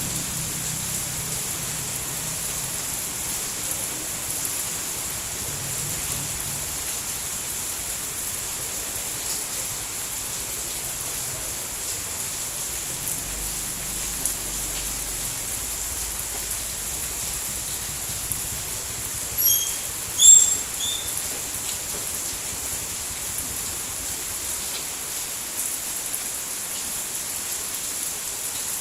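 Rain falling steadily, an even hiss. About two-thirds of the way through come a few short, high chirps.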